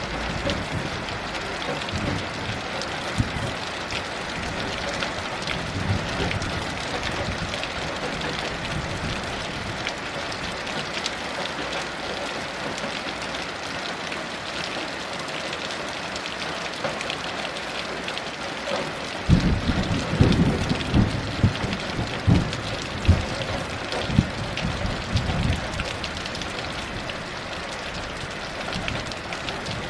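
Heavy rain falling steadily. About two-thirds of the way in, a low rolling rumble of thunder comes in surges for several seconds.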